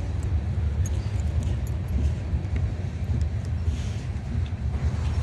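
Freight train cars rolling slowly past: a steady low rumble of wheels on the rails, with scattered light clicks.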